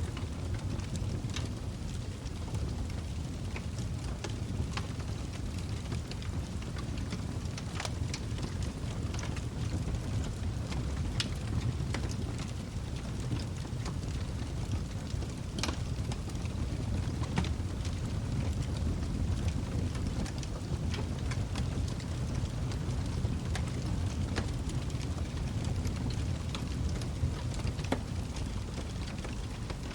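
Log fire burning in a fireplace: a steady low rushing of the flames with frequent sharp crackles and pops from the wood.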